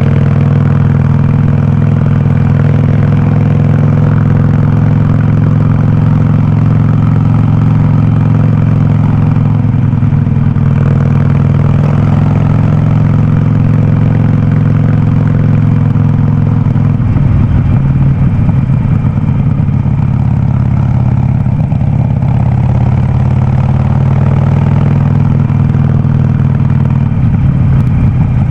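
Harley-Davidson Sportster 48's air-cooled V-twin running through a loud aftermarket Vance & Hines exhaust, held steady while riding. About 17 seconds in, the note turns choppy and pulsing, the V-twin's loping beat coming through.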